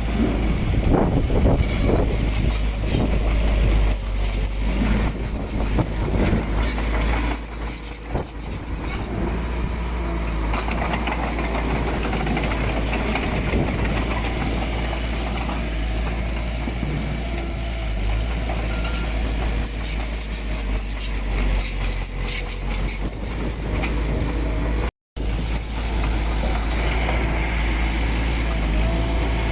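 Heavy earthmoving machinery running: steady diesel engine noise with metallic clanks and high squeals through the first several seconds and again just past twenty seconds in. The sound cuts out for an instant near the end.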